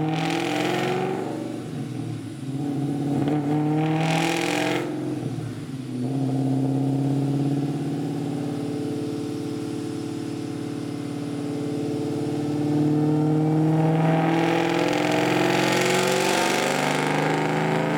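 Supercharged V8 of a 2003 Mustang Cobra running on a chassis dyno. It revs up briefly twice in the first five seconds, settles to a steady speed, then slowly builds in revs and loudness over the last few seconds.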